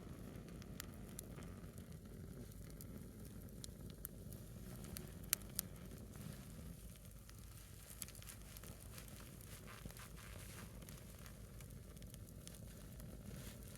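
A small wood fire burning a single split log, crackling faintly with scattered sharp pops; one pop about five seconds in is louder than the rest.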